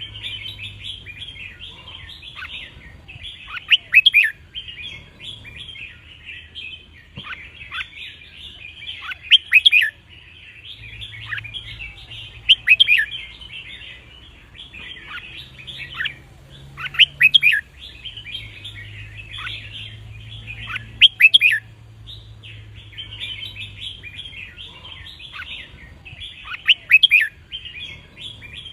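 Red-whiskered bulbul song: loud, short song phrases ring out every few seconds over continuous high twittering.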